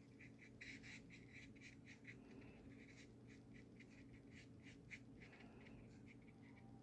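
Faint, quick strokes and dabs of a small synthetic paintbrush laying gouache onto paper, several light scratches a second, thinning out near the end.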